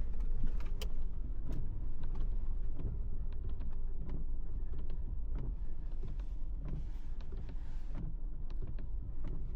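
A Lexus SUV crawling in low range over fresh snow, heard from inside the cabin: a steady low rumble with scattered small creaks and clicks.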